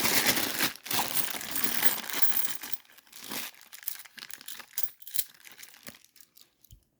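Plastic coin bag being torn open and crinkled for about three seconds, then a few scattered light clicks and rustles that die away.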